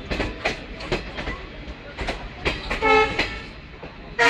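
Moving train, with its wheels clicking irregularly over rail joints above a steady running rumble. A brief horn toot comes about three seconds in.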